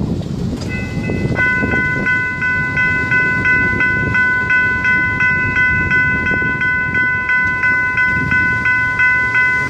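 Electronic crossing bells (e-bells) at a grade crossing ringing a rapid, steady ding of about four strikes a second, starting under a second in. Under them, the low rumble of the rear cars of a freight train rolling through.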